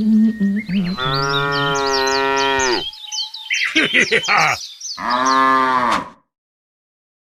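Cow mooing: one long moo starting about a second in that drops in pitch at its end, then two shorter moos, followed by about a second of silence. Light music with bird chirps is heard in the first second.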